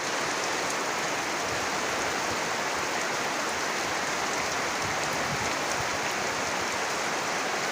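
Heavy rain falling steadily: an even, unbroken hiss with scattered faint drop ticks.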